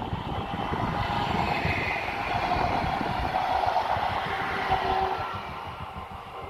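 Electric train passing: running noise with a whine that swells over the first second and fades away after about five seconds, over wind rumbling on the microphone.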